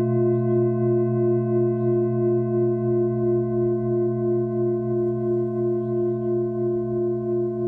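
Singing bowl ringing on after a strike, several overtones sounding together and slowly fading, with a gentle pulsing wobble in the tone.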